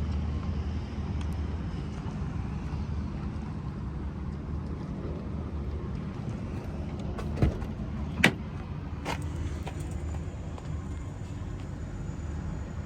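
Steady low rumble with two sharp clunks less than a second apart midway through, and a fainter third one just after.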